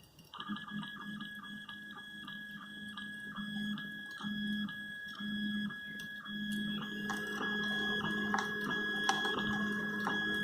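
3D printer running a print: the stepper motors give a steady high whine over a lower hum that pulses on and off as the print head moves, with scattered light ticks.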